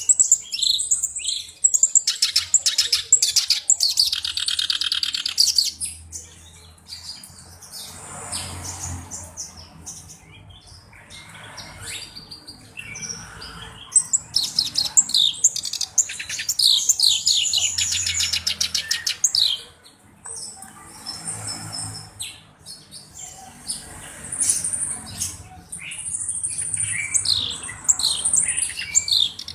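Black-browed reed warbler singing a busy song of fast, rapidly repeated trilled notes mixed with harsh chattering. It comes in bouts of several seconds with quieter, scratchier stretches between them.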